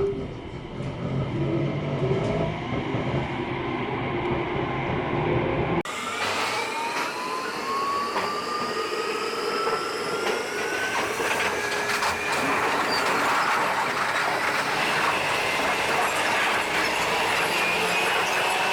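JR Kyushu 817 series electric train running, first with a low rumble. About six seconds in, the sound changes abruptly and the motor whine rises steadily in pitch as the train accelerates, over rail and running noise.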